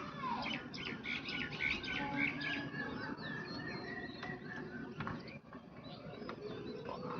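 Birds chirping: a dense run of short, high chirps for the first few seconds, thinning out after that.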